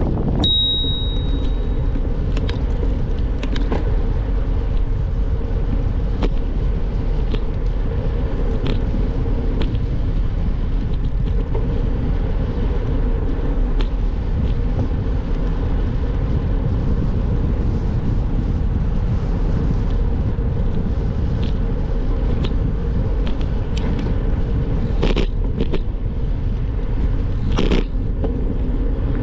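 Steady rumble of bicycle tyres rolling on the road, with wind on the microphone and scattered light clicks and rattles from the ride. A brief high-pitched tone sounds just after the start, and two louder rushes come near the end.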